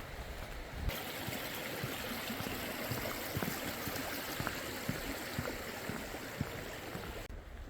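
Steady rush of a mountain stream's flowing water, starting abruptly about a second in and cutting off near the end.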